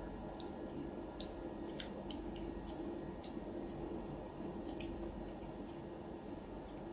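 A person chewing food, with small wet mouth clicks and smacks scattered throughout, over a steady low hum.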